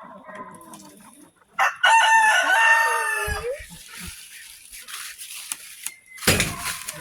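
A rooster crows once, a loud call of about two seconds that drops in pitch at the end, with fainter chicken calls before it. About six seconds in there is a short burst of noise.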